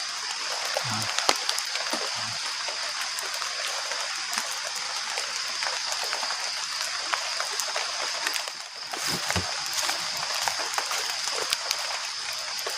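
Steady rain falling, with many scattered close drops ticking sharply.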